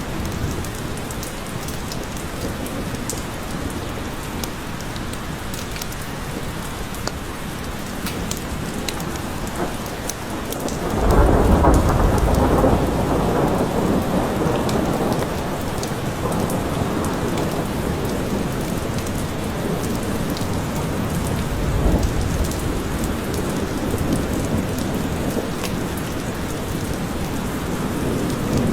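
Steady rain falling in a forest, with scattered drips ticking. About eleven seconds in, a rumble of thunder rolls in, loudest for a few seconds and fading slowly, with fainter rumbles later on.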